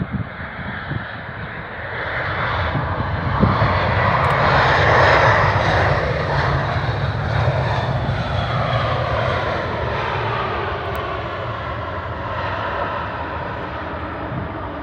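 easyJet Airbus A320-family jet airliner passing close on its landing approach: the engine noise swells to a peak about four to six seconds in, then fades slowly with a falling whine as it moves away.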